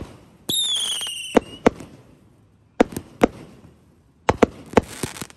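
Aerial fireworks going off: a string of sharp bangs from bursting shells, with a loud whistle that falls slightly in pitch for about a second shortly after the start, and a hiss near the end.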